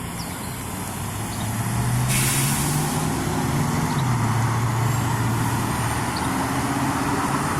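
Fire engine's diesel engine running close by, growing louder over the first two seconds and shifting in pitch about four seconds in, with a short air-brake hiss about two seconds in.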